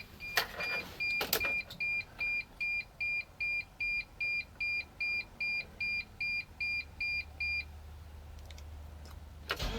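Dashboard warning chime of a 2006 Dodge Sprinter 2500 diesel beeping steadily, about two and a half beeps a second, with the ignition switched on before a cold start. There are two sharp clicks in the first second and a half. The chime stops about three quarters of the way through, a low hum follows, and the engine starts cranking right at the end.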